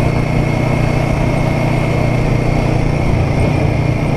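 Royal Enfield Guerrilla 450's single-cylinder engine running at a steady cruise, an even drone that holds the same pitch without revving up or down.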